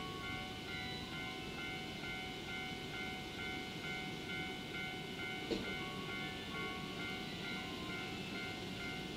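EF65 electric locomotive and its rail-carrying flatcars approaching: a steady low rumble, with background music of held notes playing over it. A single sharp click about five and a half seconds in.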